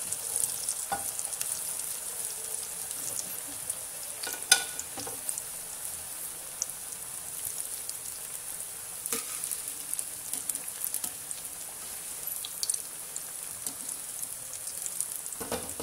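Cauliflower pakoras sizzling steadily in deep hot oil during their second fry, with a few sharp clicks, the loudest about four and a half seconds in.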